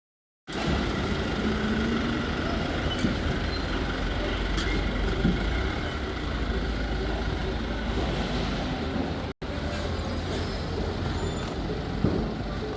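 Steady rumble of road vehicles and traffic noise, with a brief dropout about nine seconds in.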